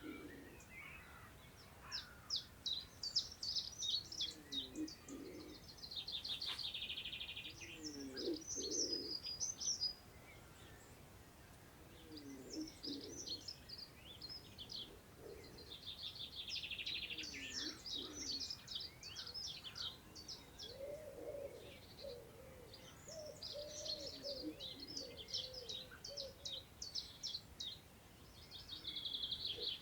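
Several birds singing in overlapping phrases of quick chirps and rapid trills, with short pauses between phrases. A lower, slower call repeats every few seconds beneath the song.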